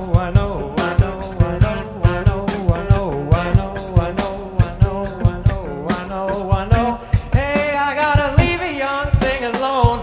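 Blues-rock band playing live through an instrumental break, with a drum kit keeping a steady beat under a bending, gliding lead melody.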